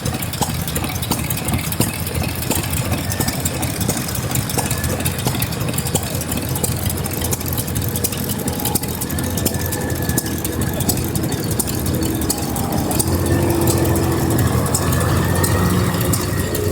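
Vintage stationary engines running steadily at idle, a continuous mechanical chugging that grows a little louder about thirteen seconds in.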